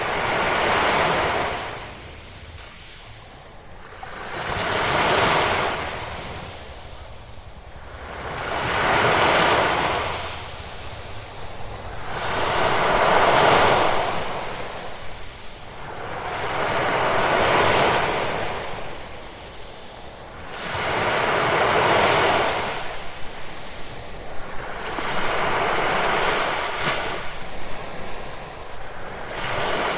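Ocean waves breaking on a shore, each surge of hiss swelling and fading in a slow, even rhythm about every four seconds.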